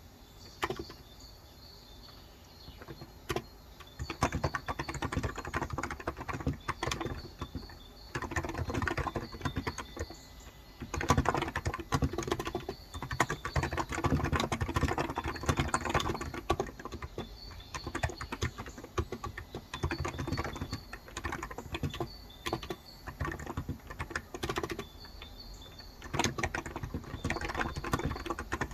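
Typing on a Cox Endeavor electrostatic-capacitive (Topre-style) keyboard with light 35 g switches: a steady run of soft keystroke clicks, sparse at first and growing into fast, dense typing partway through. Birds chirp faintly in the background.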